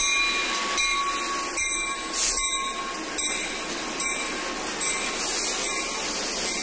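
Freight train led by EMD GP30 diesel locomotives passing close by, with a regular click about every 0.8 seconds.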